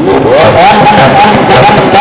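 Lamborghini engine revved hard and loud: the pitch climbs steeply in the first half second or so, then is held high and steady with a slight waver.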